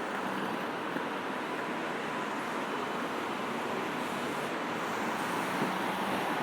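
Steady traffic on a busy city road: a continuous wash of tyre and engine noise from passing cars, with no single vehicle standing out.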